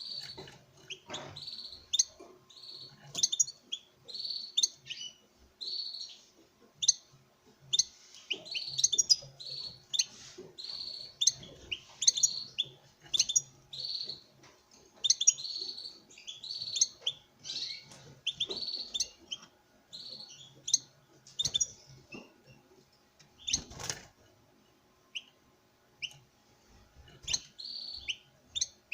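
Male European goldfinch twittering at a female in courtship: runs of short, bright notes come every second or so throughout. A few sharp clicks are mixed in, and there is one hard knock a few seconds before the end.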